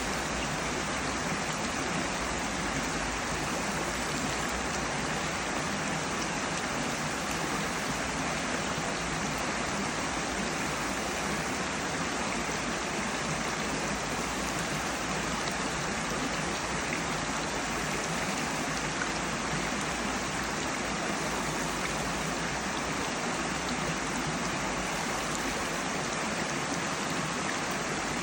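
Mountain valley stream flowing steadily, a continuous rush of water.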